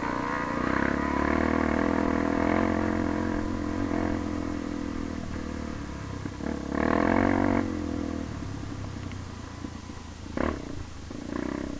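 Motorcycle engine running steadily, swelling louder for about a second midway, with a brief sharp sound near the end.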